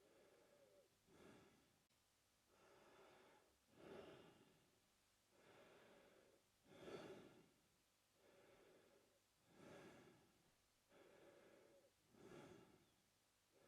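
A man breathing slowly and steadily through his mouth, faint and close: about five even in-and-out breaths, one roughly every three seconds.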